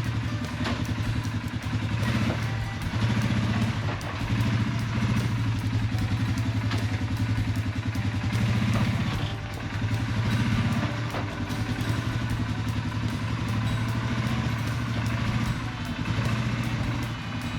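Vehicle engine running steadily, its revs and loudness rising and falling a little every few seconds, as when it is being driven.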